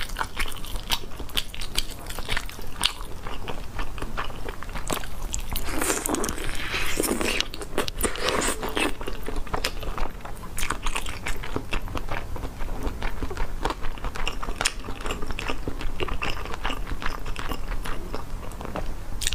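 Close-miked eating of spicy roast chicken: biting and chewing with many small wet clicks. The sound thickens and grows louder for a few seconds about six seconds in.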